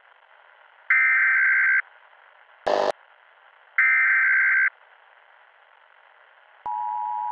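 Emergency Alert System broadcast tones over a steady hiss: two harsh screeching data bursts about three seconds apart, a brief loud crackle between them, then near the end the steady two-note attention tone begins, which announces an emergency message.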